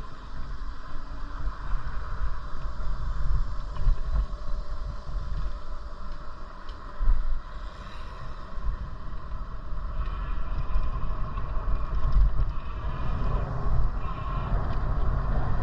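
Wind buffeting the microphone with an uneven low rumble, over steady road noise, while riding a bicycle.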